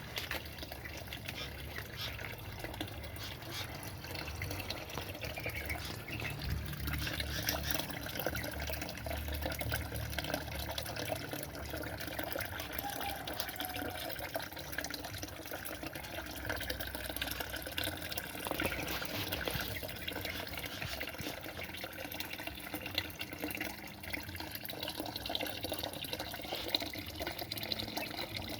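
Steady running water, like a tap or small fountain filling, with a few faint bird chirps.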